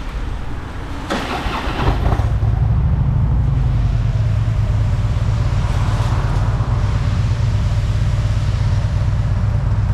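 Harley-Davidson motorcycle's V-twin engine pulling away, getting louder about two seconds in, then running steadily.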